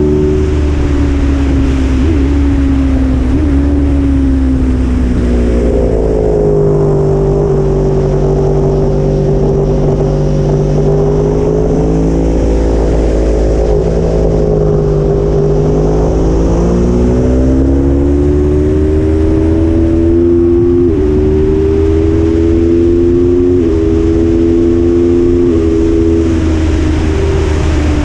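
Aprilia Tuono motorcycle engine heard onboard at speed over steady wind rush: the engine note holds fairly even through a long corner, then climbs under acceleration with three quick upshifts near the end, each a sudden drop in pitch about two seconds apart.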